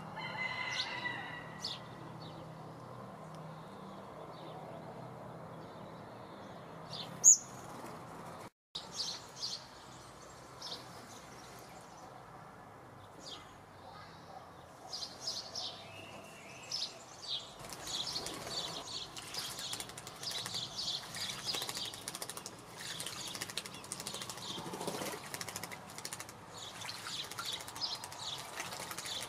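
Wild birds chirping and calling, the short high calls growing busy in the second half. A single sharp click stands out a little after seven seconds, and the sound drops out briefly about eight and a half seconds in.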